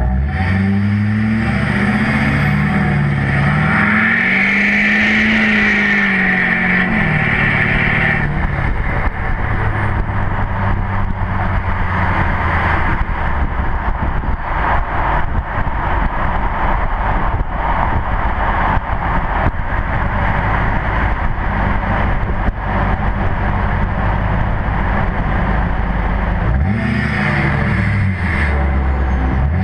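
Straight-piped LMM Duramax 6.6-litre V8 turbo-diesel exhaust with no cat, DPF or muffler, heard from a truck-mounted GoPro. The engine revs up and falls back twice in the first eight seconds, with a high whistle over the first pull. It then settles into a steady exhaust drone with road noise while cruising, and revs up and back once more near the end.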